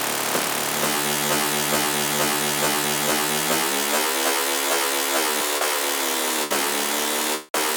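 A noisy sound run through a high-feedback delay set to a very short time, which turns it into a buzzy pitched drone. Its pitch rises about three and a half seconds in, holds, then falls back near five and a half seconds, following changes in the delay time (less time gives a higher pitch). It breaks off briefly twice near the end.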